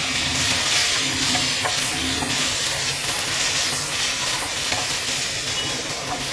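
Chopped tomatoes sizzling steadily in hot oil in a frying pan with onions and cashews, just added to the fried onion mix, while a wooden spatula stirs them, scraping and tapping the pan now and then.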